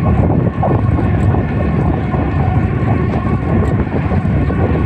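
Knobby mountain-bike tyres humming as they roll at speed, mixed with wind buffeting the microphone.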